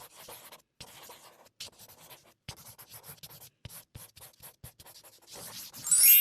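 Pen or pencil strokes scratching across paper in short, irregular strokes while a picture is coloured in. Near the end a bright chime rings out and lingers.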